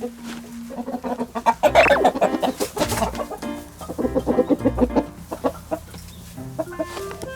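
Domestic chickens clucking in a run of short, quick calls, strongest between about two and five seconds in, with background music playing under them.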